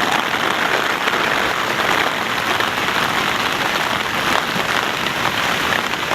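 Heavy rain falling and spattering on the pavement, a dense steady patter of drops, much of it as hurricane rain.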